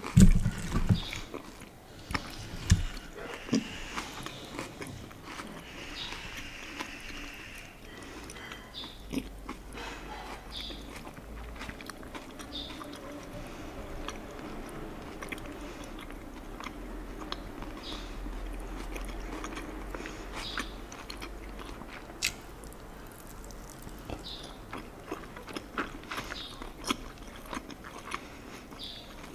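Close-miked chewing and mouth sounds of eating baked tofu, with scattered clicks of a metal fork on the plate. The loudest knocks come right at the start, as the fork cuts down through the tofu against the plate.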